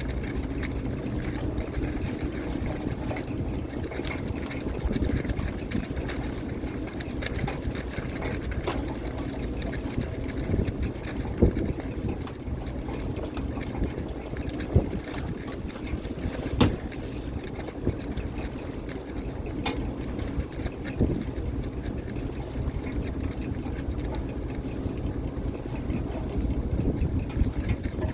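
Fishing boat's engine running steadily, with water splashing and sloshing over it and a few sharp knocks in the middle.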